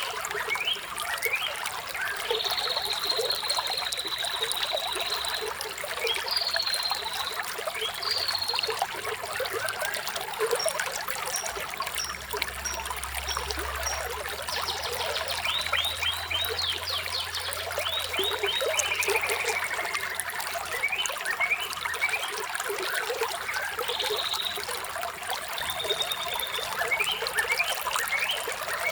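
Running water trickling steadily, with small birds chirping and whistling over it. Early on there is a held high whistle, near the middle a run of short high peeps and fast trills, and after them a falling call.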